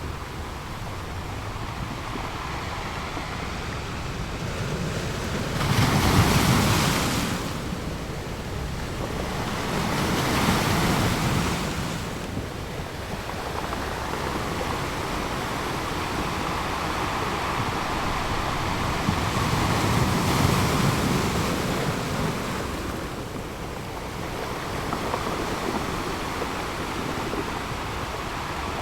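Sea waves breaking on a rocky shore, surging in and washing back over a constant hiss of surf. The loudest wave breaks about six seconds in, with further swells around ten and twenty seconds in.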